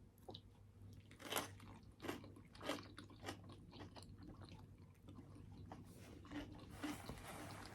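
A person chewing crunchy food close to the microphone: irregular crisp crunches and mouth clicks, with several louder bites between about one and three and a half seconds in.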